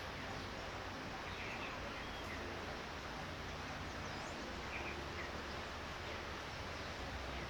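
Light rain falling with a steady, even hiss.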